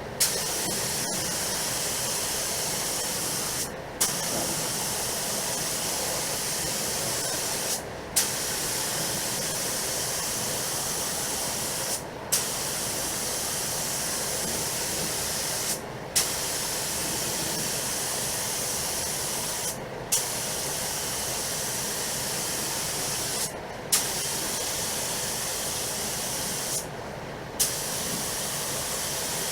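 Inokraft Drizzle HVLP spray gun spraying paint: a steady air hiss in eight passes of about three and a half seconds each, every pass opening with a short burst as the trigger is pulled, with brief breaks between.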